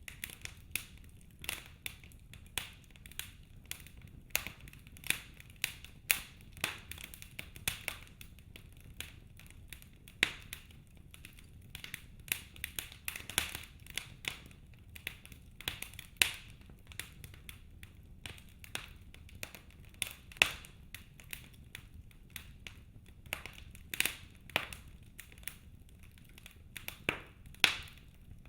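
Wood fire crackling in a fireplace: irregular sharp pops and snaps, several a second, over a faint low steady background.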